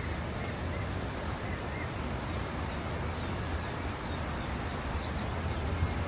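Steady rain ambience with a low rumble underneath, and a few faint, high bird chirps about two-thirds of the way through.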